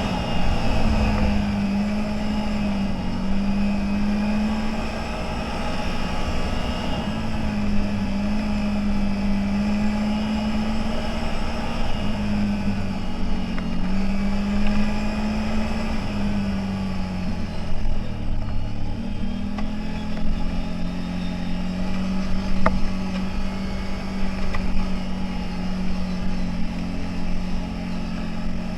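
CFMoto 1000 off-road vehicle's engine running under way, a steady drone whose pitch rises and falls a little with the throttle, then holds steadier near the end, over a rough low rumble.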